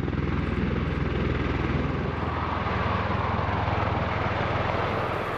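V-22 Osprey tiltrotor's rotors running, a steady fast, even blade chop over a low drone.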